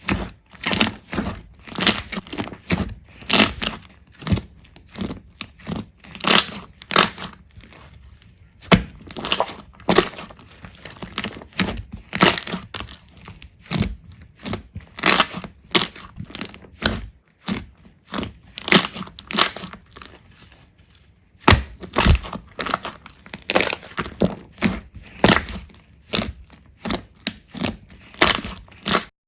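Slime being squeezed and pressed by hand, giving a quick, irregular run of sharp crackles and pops, with a brief lull a little past the middle.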